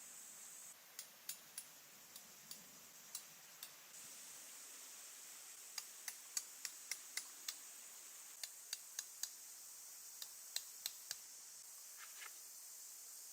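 A scatter of light, sharp clicks and taps, irregularly spaced with some quick runs of four or five, over a steady high hiss.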